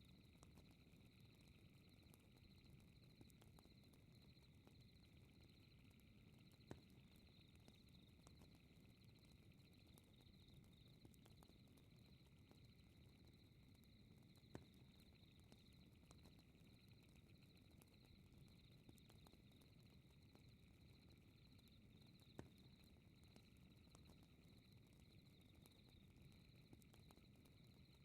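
Very faint fireplace ambience: a soft low rustle of burning wood with three sharp crackling pops about eight seconds apart, over a steady high-pitched chirring.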